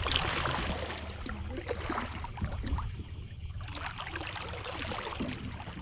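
Kayak paddle dipping and splashing in the river water, with the biggest splash in the first second and smaller splashes and drips after it. A steady low rumble runs underneath.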